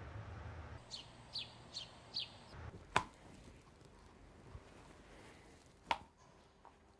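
A bird chirping four times in quick succession, each chirp short and falling in pitch, over faint background hum. Two sharp clicks follow, about three and six seconds in.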